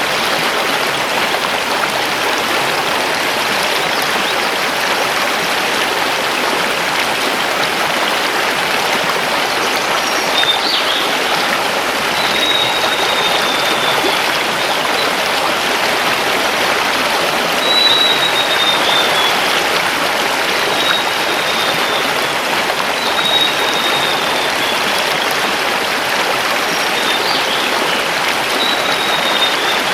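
Mountain river rushing over stones, a steady even noise. From about a third of the way in, a bird sings short, thin falling whistles, repeated every few seconds.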